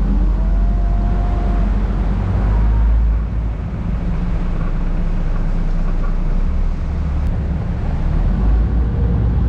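Sightseeing boat's engine running with a steady low rumble, heard aboard as the boat moves through the sea cave.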